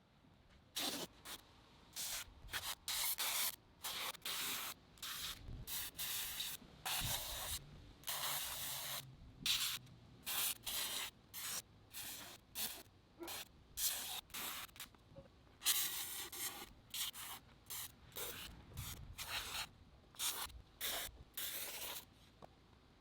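Hand trigger spray bottle spritzing many times over in irregular bursts of hiss, some short and some about a second long.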